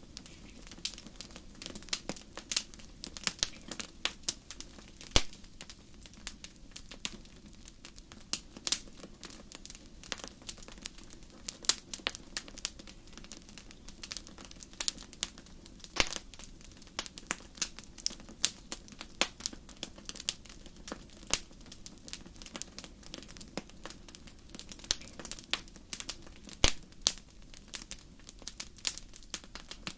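Fire crackling: a constant run of irregular sharp snaps, a few much louder than the rest, over a steady low background.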